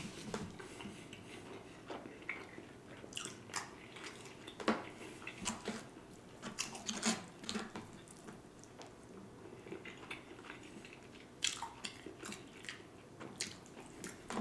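Close-miked chewing with irregular wet smacking and clicking mouth sounds, a person eating soft, saucy food.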